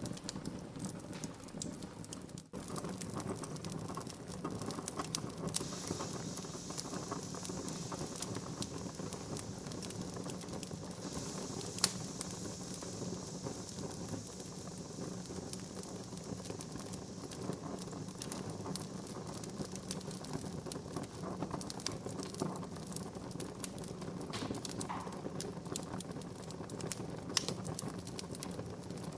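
Wood fire burning in a fireplace: a steady hiss under frequent sharp crackles and pops, with one louder pop about twelve seconds in.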